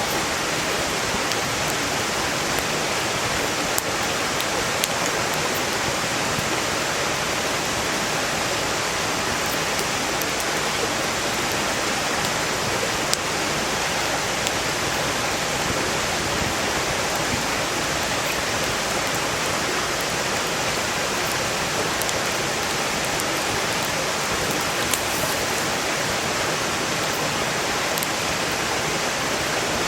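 Mountain stream rushing steadily over rocks, a constant full water noise, with a few sharp crackles from a burning wood campfire, the clearest about four, five and thirteen seconds in.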